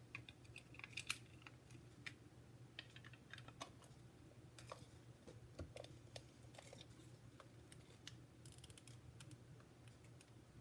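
Faint, scattered small plastic clicks and taps from a tape-runner adhesive dispenser being handled and put back into working order after it jammed. A low steady hum lies underneath.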